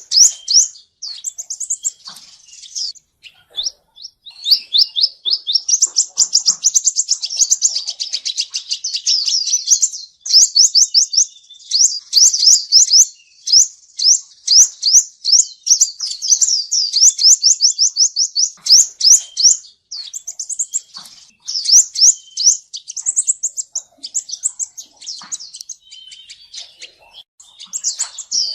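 Male sunbird singing: long runs of rapid, short, high sweeping notes, broken by brief pauses.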